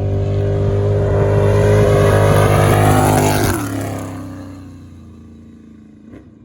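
Off-road desert race vehicle passing close at speed: its engine note grows louder, drops sharply in pitch about three and a half seconds in as it goes by, then fades away.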